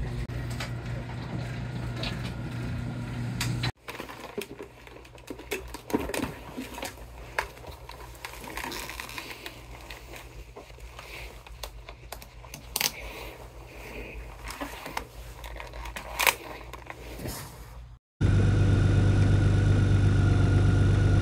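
A garage door opener's motor runs with a steady hum. Then, after a cut, come scattered clicks and rustling as a motorcycle helmet is pulled on and its strap fastened. Near the end a Honda Gold Wing's flat-six engine idles steadily, clearly louder.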